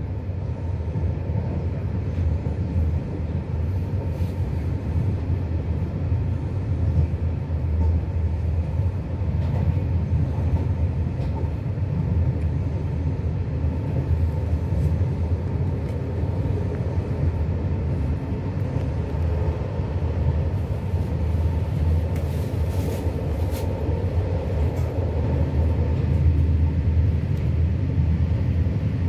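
Steady low rumble of a moving passenger train heard from inside the carriage: wheels running on the rails and the car's running noise.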